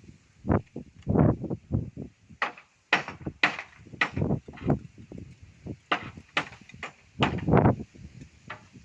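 A string of irregular knocks and thuds during roof repair work, about fifteen in all, some sharp and some dull, with the loudest cluster near the end.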